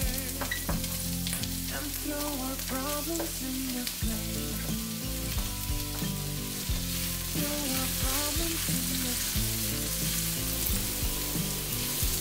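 Carrot strips sizzling and frying in hot oil in a nonstick wok as they are stirred with a spatula, with background music playing underneath.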